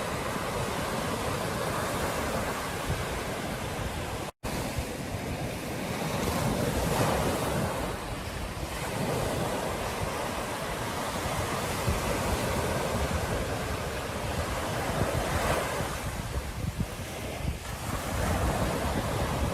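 Ocean surf washing onto a beach in swells every few seconds, with wind rumbling on the microphone. The sound drops out to silence for a split second about four seconds in.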